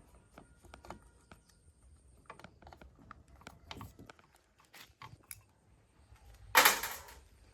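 Scattered light clicks and taps of hand work on metal parts, with a faint high whine that stops about two and a half seconds in, then one louder rasping noise of about half a second near the end.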